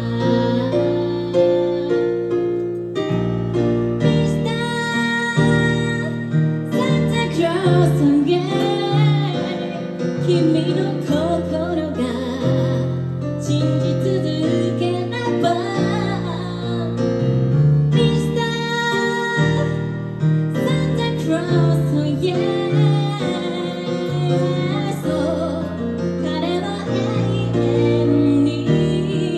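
A woman singing a song while accompanying herself on a keyboard or piano, playing sustained chords, recorded live.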